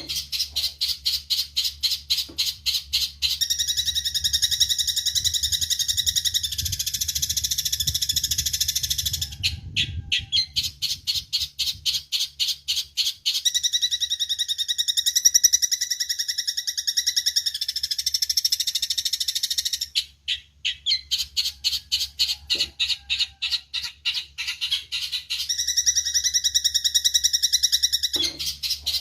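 Eurasian tree sparrows chirping: runs of short, sharp chirps several a second, alternating three times with stretches of dense, continuous chattering.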